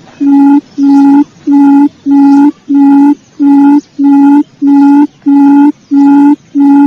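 Quail lure call played as a recording: a low, hooting note repeated at an even pace, about three notes every two seconds.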